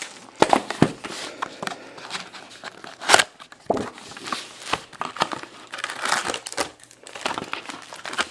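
Plastic wrapping on sealed trading-card boxes crinkling and tearing as it is cut and pulled off, with irregular sharp crackles; the loudest crackle comes about three seconds in.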